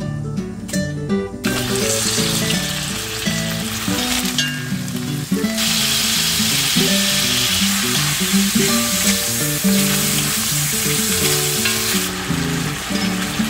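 Chopped green chillies and squid sizzling as they are stir-fried in a hot oiled pan and stirred. The sizzle starts about a second and a half in and grows louder from about halfway through, then eases a little near the end. Soft plucked guitar music plays underneath.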